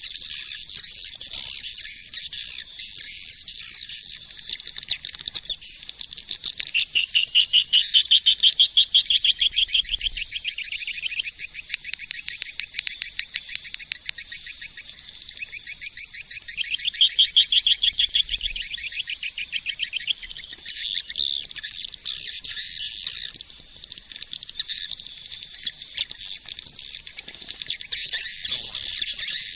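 Swiftlet call sound: dense trains of rapid, high-pitched twittering chirps, the kind of lure call played to draw swiftlets into nesting houses. The chirping swells louder twice, about a quarter of the way in and again a little past the middle.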